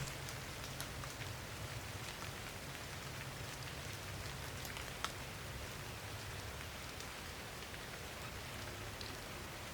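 Steady rain falling, with scattered drops ticking close by and one sharper tick about five seconds in.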